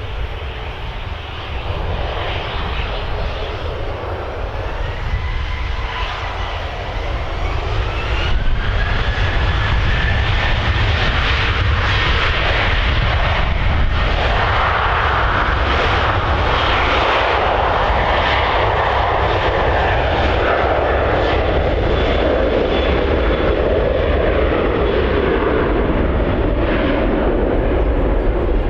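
Jet aircraft engines: a whine rising in pitch, growing much louder about eight seconds in, then a steady loud roar whose pitch slowly sinks near the end.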